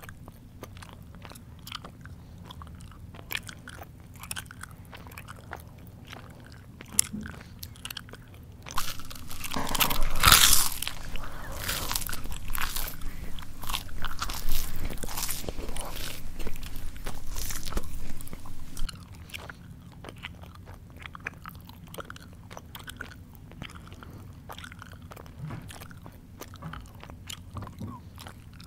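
A person chewing crunchy food close to the microphone: a run of sharp crunches and wet mouth clicks, loudest and densest from about a third of the way in to about two thirds through, then back to lighter chewing clicks.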